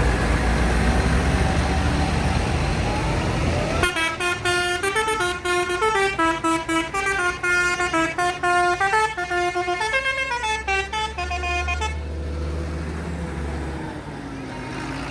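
A tractor engine running with a low rumble, then a musical horn plays a multi-note tune for about eight seconds, and the engine hum carries on after it stops.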